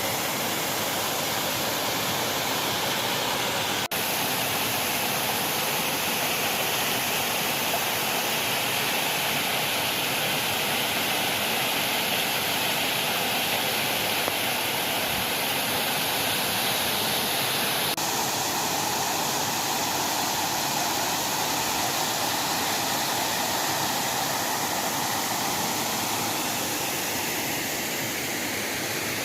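Waterfall: a steady rush of falling water with no break, its tone shifting slightly about 4 and 18 seconds in.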